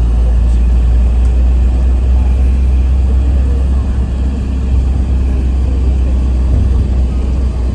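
Steady low rumble of a moving tour vehicle, engine and road noise heard from inside as it drives along.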